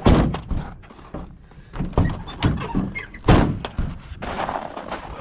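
A series of heavy thuds and knocks: a loud one right at the start, then several more about two to three and a half seconds in, the loudest just after three seconds.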